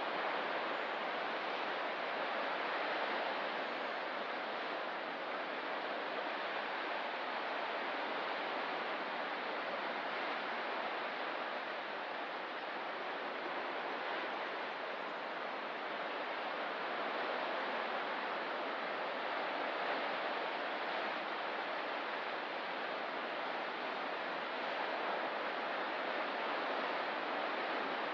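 A steady wash of ocean surf, its level rising and easing gently without any sharp wave breaks.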